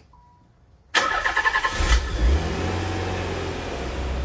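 Nissan 300ZX's VG30DE V6 being started: about a second in, the starter cranks briefly, then the engine catches and settles into a steady idle. The idle is slightly high, as expected while the engine is still cold.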